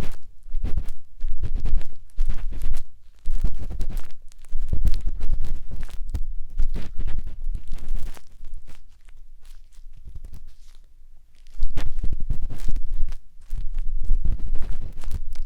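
A matchstick scratching and rubbing inside the silicone ear of a 3Dio binaural microphone, heard very close, as a dense run of crackly scrapes with a heavy low rumble. It grows quieter for a few seconds past the middle, then picks up again.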